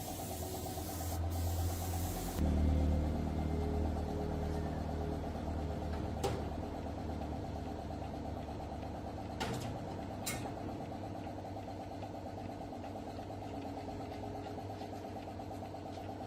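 Spray-gun hiss cuts off about two seconds in, leaving a motor running steadily, with three sharp clicks over it.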